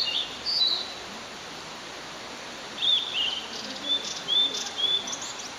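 Blue-and-white flycatcher singing: a short phrase of slurred whistled notes at the start, then after a pause of about two seconds a longer phrase of several whistled notes.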